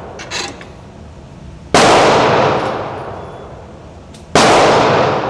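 Two pistol shots from a .40-calibre Smith & Wesson M&P 2.0 with a forced-reset trigger, fired singly about two and a half seconds apart. Each shot rings out in a long echo that dies away over a couple of seconds.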